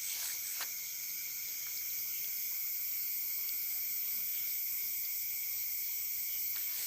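Night insects, crickets among them, chirring steadily at several high pitches, with a faint click or two in the first second.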